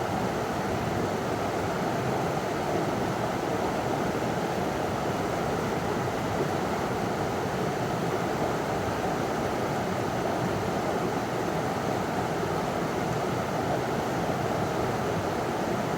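River water running over a small waterfall: a steady, even rush of water.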